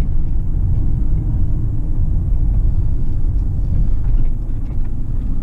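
Steady low rumble of road and engine noise inside a moving van's cabin.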